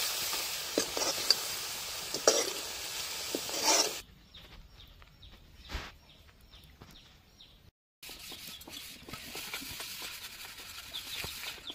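Snail curry sizzling in an aluminium kadai while a metal ladle stirs and scrapes it, with sharp clicks of metal on the pan. It stops abruptly about four seconds in. Faint ticks follow, then a short silent gap, then a steadier hiss with light clatter.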